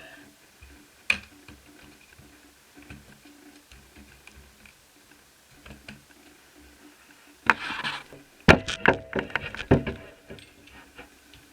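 Laptop parts and tools being handled on a work surface: a single sharp click about a second in, a brief scrape about seven seconds in, then a quick run of clicks and knocks.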